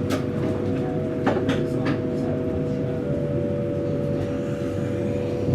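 High-speed electric multiple-unit train running: a steady low rumble with a steady electric motor whine that shifts pitch about three seconds in, and a few sharp clicks in the first two seconds.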